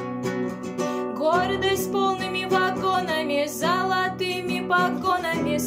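Acoustic guitar strummed as song accompaniment, with a voice singing a melody over it from about a second in.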